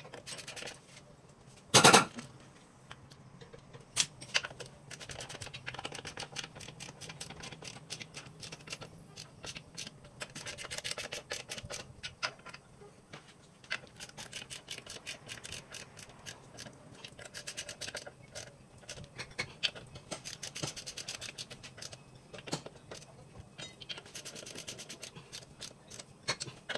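Hand-tool work on a car: one loud metallic knock about two seconds in, then long runs of rapid clicking, stopping and starting again.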